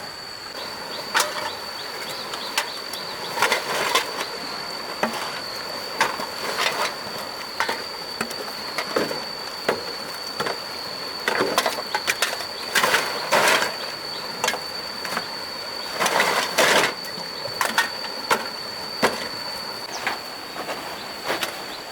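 Irregular knocks, clatter and crackling of objects being handled, loudest in two stretches past the middle, over a steady thin high-pitched tone.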